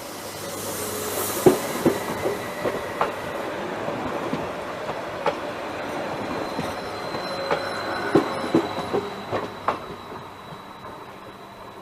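Train passing on the line, a steady rolling noise that builds and then fades near the end, with the wheels clicking sharply over the rail joints in quick pairs and clusters.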